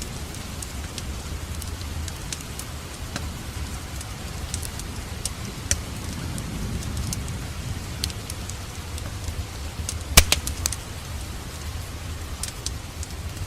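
Fire crackling in a fireplace: a steady low rumble of flames with scattered crackles and snaps. A sharp, loud pop comes about ten seconds in, followed by a few smaller ones.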